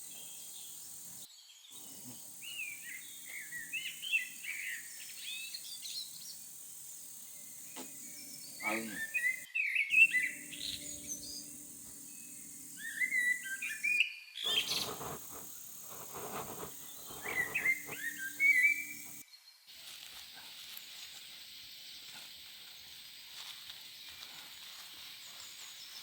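Small birds chirping and twittering in four short bursts of song over a faint steady background hum. A steady hiss takes over for the last several seconds.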